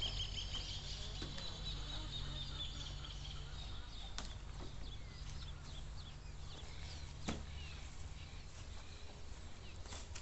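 Birds chirping over a low steady rumble, with two sharp knocks about four and seven seconds in.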